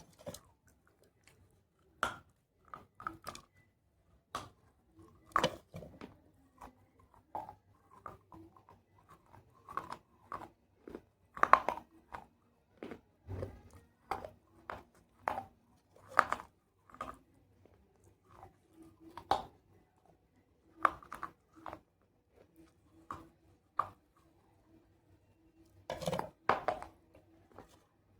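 Close-up crunching and chewing of pieces of clay pot: irregular sharp crunches at each bite, with a few louder clusters of crunches about 11, 16 and 26 seconds in.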